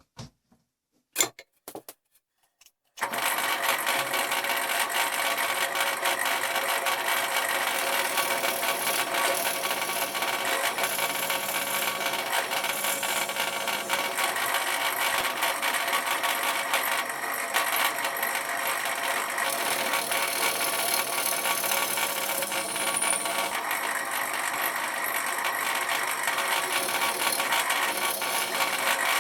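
An electric drill starts about three seconds in and runs steadily, boring a bolt hole through a timber brace. A few light clicks come before it.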